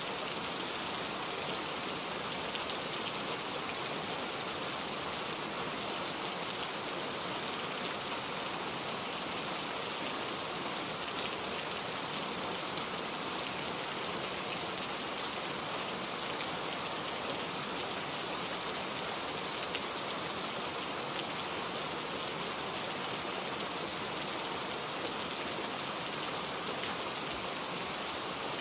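Steady rain falling, an even hiss with scattered faint drop ticks and no let-up.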